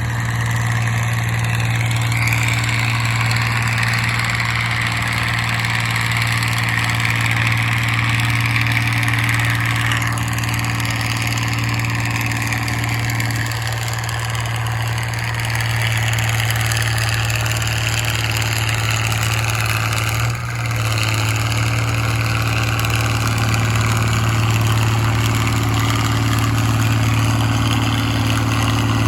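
Minneapolis-Moline farm tractor engine running steadily at a tractor pull, with a brief dip about two-thirds of the way through.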